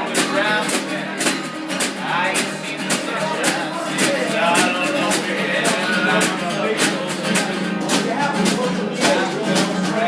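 Live acoustic guitar music, strummed in a steady rhythm.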